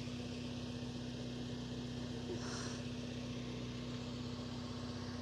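Honda Integra Type R (DC5)'s K20 four-cylinder engine idling steadily while parked. A brief, higher sound comes about halfway through.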